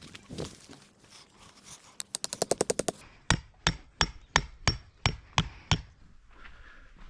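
A peg hammer driving a tent stake into the ground: a quick run of light taps, then about eight hard strikes roughly three a second.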